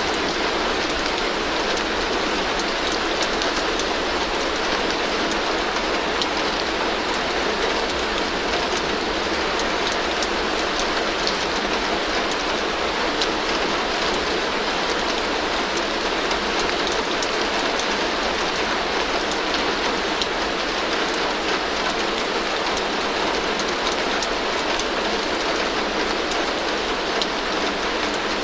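Heavy rain falling steadily on a tin roof, a dense even patter with many individual drop ticks and no pauses or changes.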